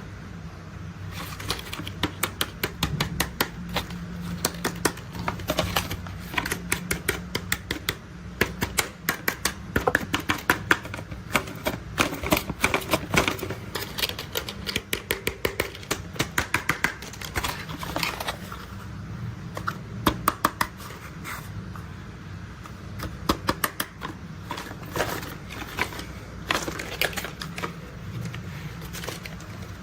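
Hard plastic toy construction vehicle parts clicking and clacking in quick, irregular runs, over a low steady hum.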